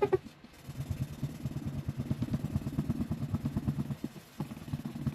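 0000 steel wool being rubbed rapidly back and forth over a wooden furniture finish, working in Howard Restor-A-Finish. The rhythmic scrubbing pauses briefly about four seconds in, then starts again.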